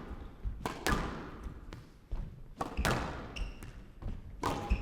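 Squash ball being struck by rackets and hitting the court walls during a long rally: a run of sharp cracks and thuds, roughly one a second, spaced unevenly.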